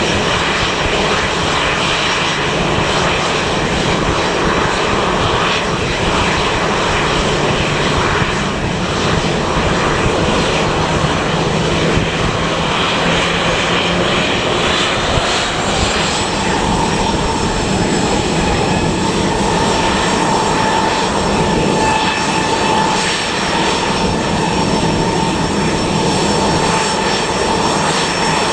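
Departing airliner's engines running loudly at the runway end: a steady roar, with a whine that rises about halfway through and then holds.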